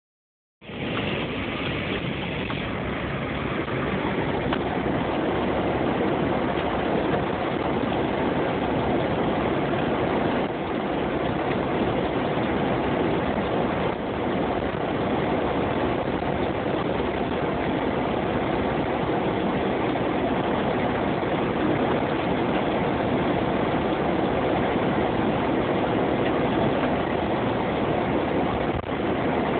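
Jeep being driven through snow: a steady mix of engine and road noise with no sharp events.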